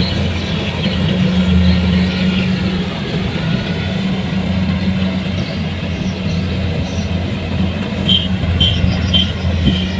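Kubota rice combine harvester's engine running steadily under load, a low drone with a rattly mechanical haze over it. Near the end a string of short high chirps starts, about two to three a second.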